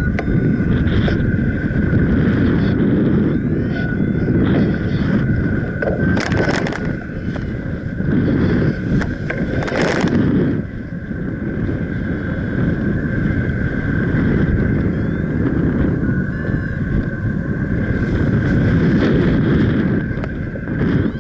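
Strong gusting wind buffeting the microphone, a loud rumbling rush with a few harder gusts, about six and ten seconds in. A thin steady high tone runs underneath.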